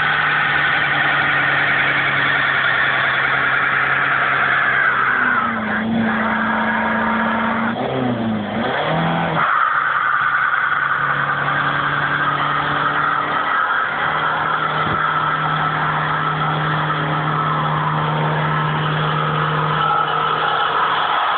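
Renault 19 turbo diesel engine held at high revs in a burnout. Its steady note shifts up, glides and dips in the middle, then settles back to a steady pitch.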